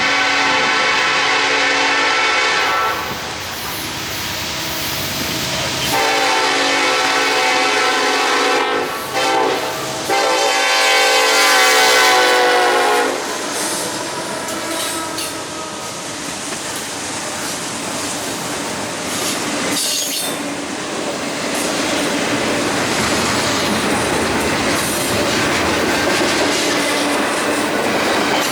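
Train horn sounding a series of blasts: one long, then another long one broken by a short break, then a third long one about ten seconds in. The train then passes with steady wheel clatter and some squealing.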